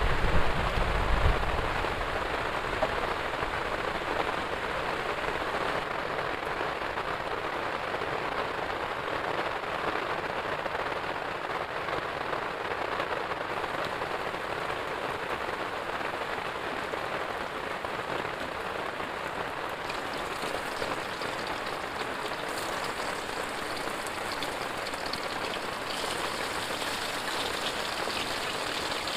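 Heavy rain pouring steadily, with a brief low rumble in the first second or two.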